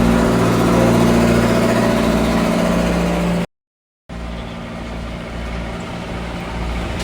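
An engine running steadily with a low hum. The sound cuts out abruptly about three and a half seconds in for just over half a second, then comes back a little quieter.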